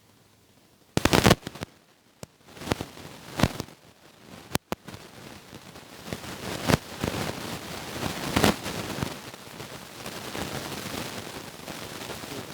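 Leaves and twigs rustling and crackling as vegetation is pushed aside close to the microphone, with scattered sharp snaps and knocks, the loudest about a second in.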